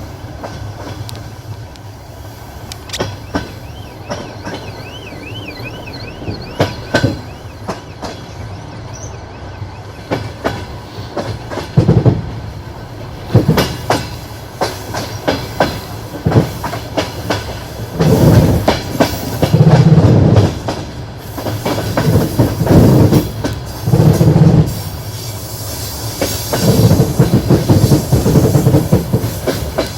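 Passenger train running on jointed track: the wheels clatter in repeated knocks over the rail joints above a steady running rumble. The knocks come in heavier, denser clusters from about halfway on. A brief wavering high-pitched squeal is heard a few seconds in.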